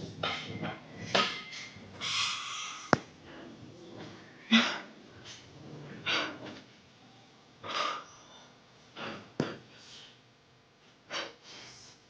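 Heavy, breathy exhalations during a triceps set, one short blast of breath every second or two. A couple of sharp clicks are heard, one about three seconds in and one near the middle.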